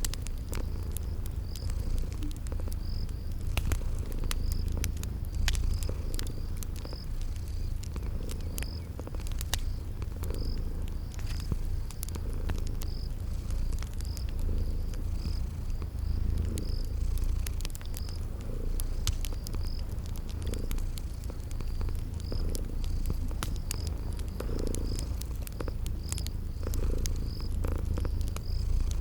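Cat purring steadily in a low rumble, with a cricket chirping about once a second and the small sharp pops of a crackling wood fire.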